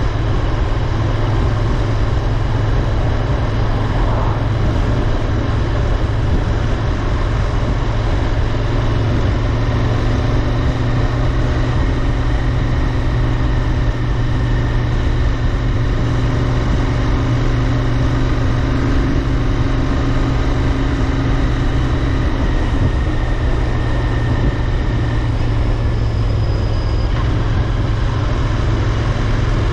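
Royal Enfield Interceptor 650's 648 cc parallel-twin engine running steadily while riding, holding a nearly constant note throughout.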